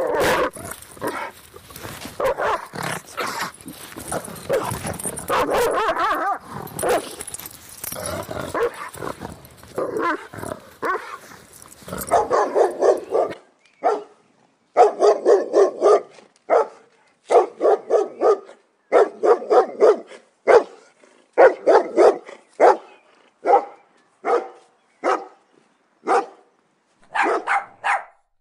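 Dogs barking and growling. For about the first half, barks and growls overlap over a hissy background; after that, single and doubled barks come about once a second with short silent gaps between them.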